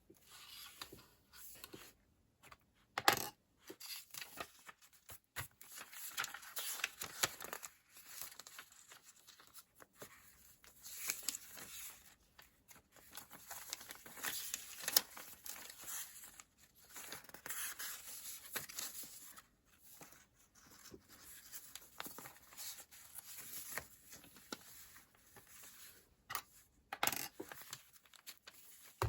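Close paper and sticker handling on a planner desk: irregular rustling, scratching and peeling of planner pages and sticker sheets. Two sharp taps stand out, about three seconds in and near the end.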